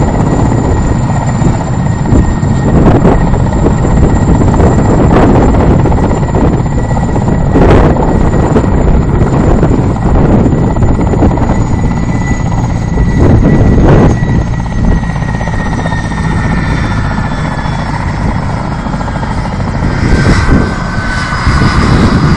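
Helicopter running close by: heavy rotor rumble with a steady high whine from the engine, and rotor downwash gusting hard against the microphone. The whine slides lower about halfway through.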